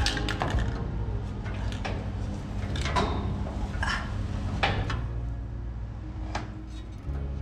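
Several separate knocks and clatters of objects being handled, over a steady low hum.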